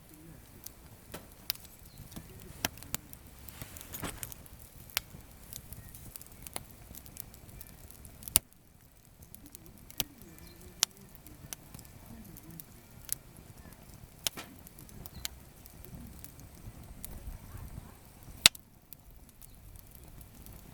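Wood campfire burning with irregular crackles and sharp pops from gathered firewood; two loud snaps stand out, about eight seconds in and near the end.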